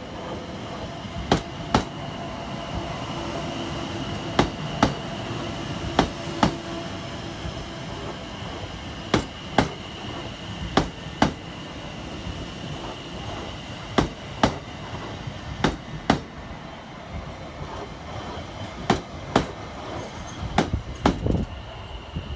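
Train wheels clattering over a rail joint as the carriages pass: two sharp clicks about half a second apart, the pair repeating every couple of seconds, over a steady rumble with a faint high whine.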